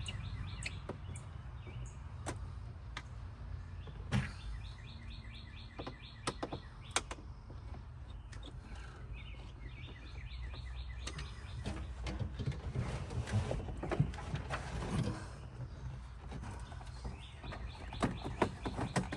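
Phillips screws being backed out of a Jeep's plastic dash trim by hand, with scattered clicks and taps of the screwdriver and trim. Several short bursts of rapid, even ticking come and go over a steady low hum.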